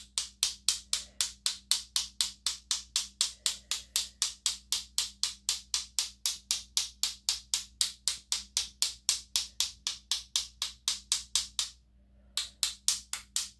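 Steady rhythmic tapping of a paint-loaded brush, about four sharp taps a second, spattering white paint to make falling snow. The taps pause briefly near the end, then resume for a few more.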